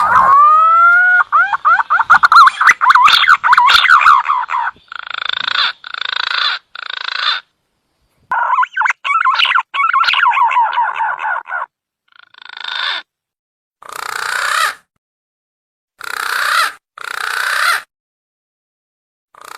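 Green pigeon (punai) calls from a bird-lure recording: rising whistled notes running into fast warbling, then a string of short, hoarse, grating notes separated by silent gaps. A second warbling run follows, and more single hoarse notes come near the end.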